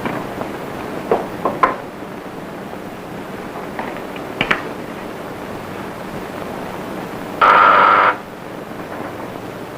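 An electric ringer gives one short buzzing ring near the end, over the steady hiss of an old film soundtrack, with a few faint clicks earlier.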